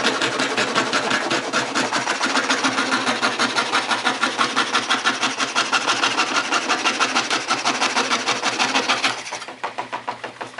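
Antique foot-pedal scroll saw, driven by a heavy crowned flywheel, sawing through pine: a fast, even rasping of the reciprocating blade at about four strokes a second. About nine seconds in the cutting stops, and the sound goes much quieter while the mechanism keeps clattering in rhythm.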